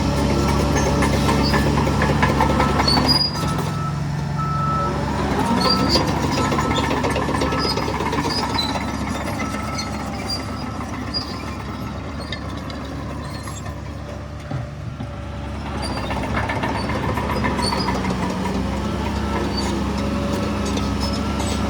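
Heavy diesel earthmoving machinery running under load, with a backup alarm beeping repeatedly and scattered clanks. The engine noise eases off around the middle and builds again near the end.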